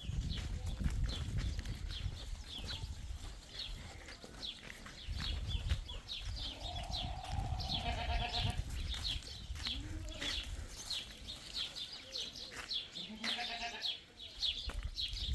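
Goats bleating: two long wavering calls, about eight and thirteen seconds in, over a steady low rumble and many short high chirps.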